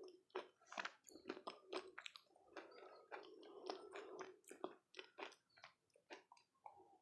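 Quiet, close-miked chewing of dahi golgappe, the crisp fried puri shells crunching in the mouth. It comes as many short, irregular crackles and clicks.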